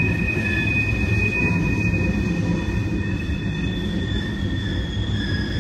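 Freight train cars rolling past with a steady low rumble, their wheels squealing on the curve in several sustained high tones that shift slightly near the end.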